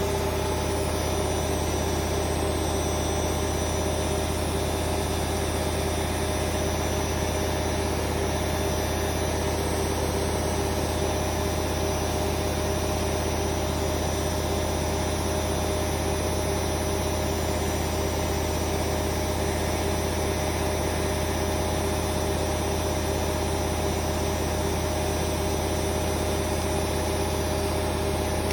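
Hoover Vision Dynamic washing machine on a spin-only cycle set to 1400 RPM, the drum spinning steadily at speed with a constant motor whine over a low hum.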